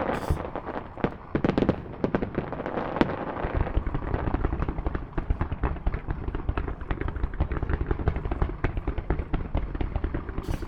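Aerial fireworks bursting in a rapid barrage: dense, overlapping bangs and crackles with no gap between them, heaviest in the first couple of seconds.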